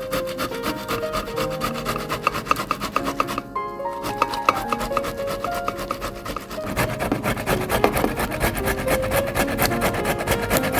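Food being grated on a metal grater, a fast run of rasping strokes that thickens a little after the middle.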